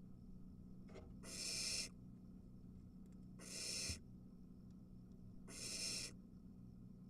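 Barn owl nestlings giving their hissing begging calls: three harsh hisses, each under a second and about two seconds apart, each swelling and then cutting off abruptly. A faint steady low hum lies underneath.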